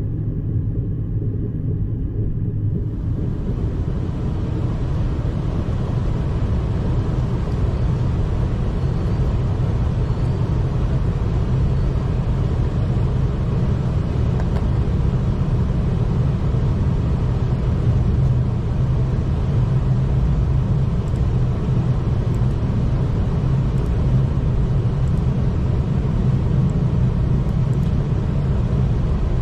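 V/Line passenger train running along the track, heard from inside the carriage as a steady low rumble. A higher hiss of wheel and rail noise joins about three seconds in.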